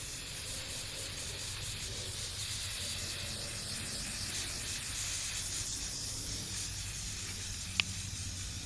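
Aerosol can of Rust-Oleum primer spraying in a steady hiss, applying a coat to metal bars. A single brief click sounds near the end.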